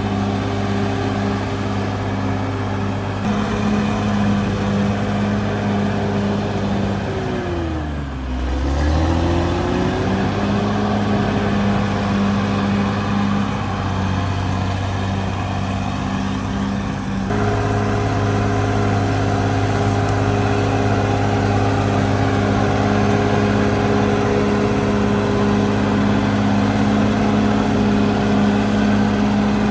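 Caterpillar D6R XL bulldozer's diesel engine running steadily at high revs with a thin high whine, dropping sharply in speed about eight seconds in and climbing back within about two seconds. From about seventeen seconds it runs a little louder.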